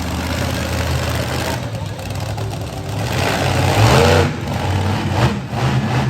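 Monster truck engine running loud and revving, its pitch rising and falling about four seconds in.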